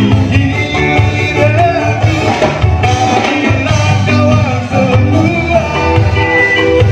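A band playing a rock song with a sung lead vocal over guitar and bass.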